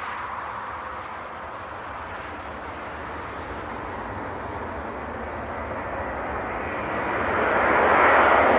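Jet airliner engine noise, a steady rush that eases a little and then swells over the last couple of seconds as a thin whine comes in.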